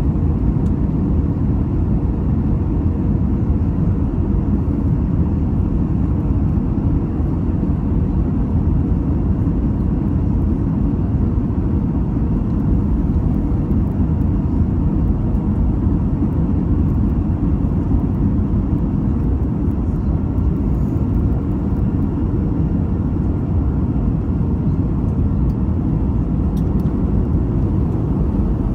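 Steady cabin noise inside an Airbus A320-214 in flight: the drone of its CFM56 engines and the rush of air along the fuselage, even and unchanging, with a faint steady hum in it.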